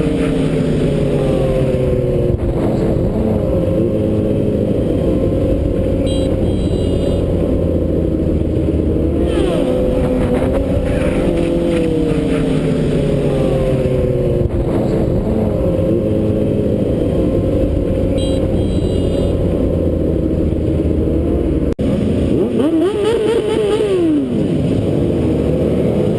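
Motor vehicle engines revving, their pitch rising and falling over and over, with one pass near the end where the pitch climbs and drops.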